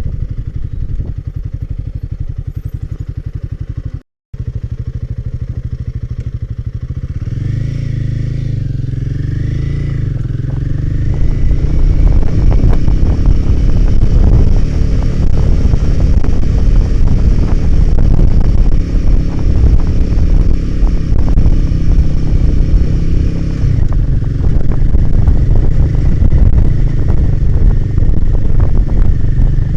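Royal Enfield Himalayan 450's single-cylinder engine running while being ridden, at low steady revs at first, with a brief cut-out about four seconds in. The revs pick up around seven seconds in, and from about twelve seconds it is louder and rougher, with wind rush on the microphone.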